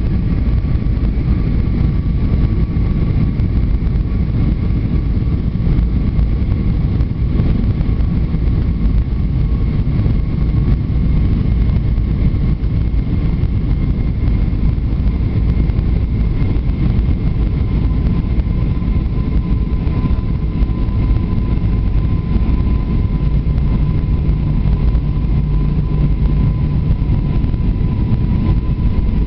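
Airbus A320 cabin noise: the steady rush of the engines and airflow, with a faint high whine that drifts slightly lower in pitch. A low hum joins for a few seconds about two-thirds of the way through.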